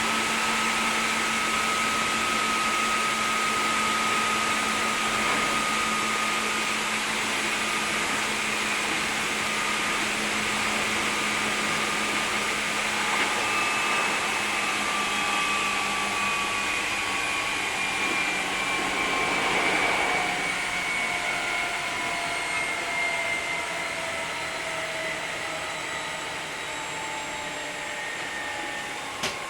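Hankyu 3300 series electric train heard from inside the car: steady running noise with the traction motors' and gears' whine slowly falling in pitch as the train slows. A single sharp click comes just before the end.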